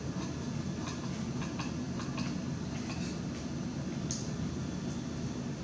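Eating sounds: soft chewing and a few light clicks, over a steady low hum.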